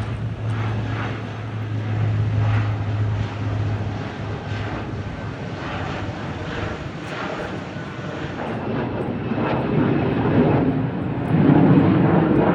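Airbus A320-200 jet engines running. A steady low hum for the first few seconds, then the noise grows louder from about eleven seconds in.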